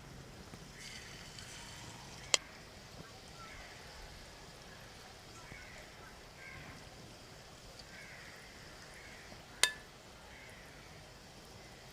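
Batter-coated chicken pieces deep-frying in hot vegetable oil, a faint steady sizzle. Two sharp clicks stand out, one about two seconds in and one near ten seconds, with short bird-like chirps recurring throughout.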